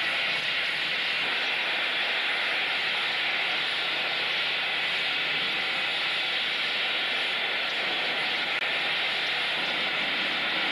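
A steady, even hiss with no rhythm or beat, unchanging in level throughout.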